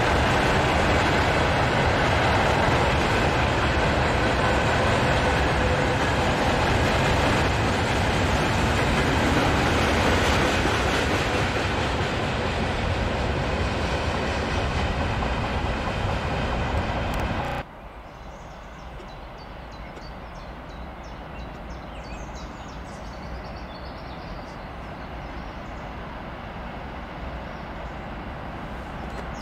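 Freight train of gondola wagons rolling past on the rails, a dense steady clatter of wheels that eases slightly as the tail of the train draws away. It cuts off suddenly about two-thirds through, leaving a much quieter low rumble of a distant approaching train with small bird chirps over it.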